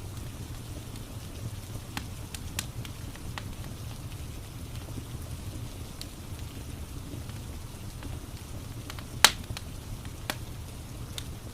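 Fireplace ambience: a log fire crackling with scattered sharp pops, the loudest about nine seconds in, over a steady low rumble of rain.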